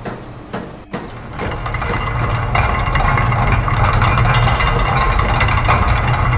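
Layered factory machine sounds: a steady low hum under dense fast ticking and clattering. It thins out briefly just under a second in, then builds back to a full, even din.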